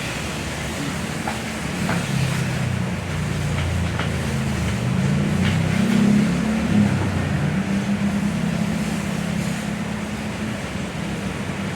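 A motor running with a steady low hum, swelling and rising slightly in pitch about six seconds in.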